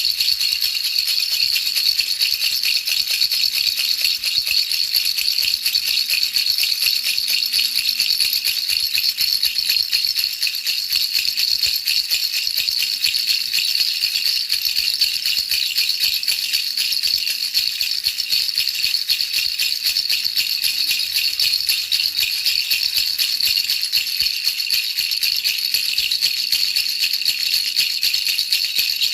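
Baby rattle shaken without pause, a dense, fast, even rattling of small hard pieces that keeps up like a hiss.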